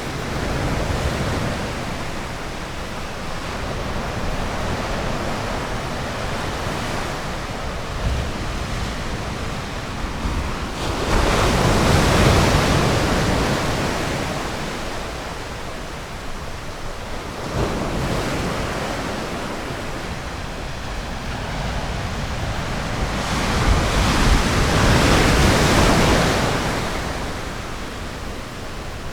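Ocean surf on a beach: a continuous wash of waves, rising twice into louder breaking waves, once a little before halfway and again about five-sixths of the way through, then ebbing back.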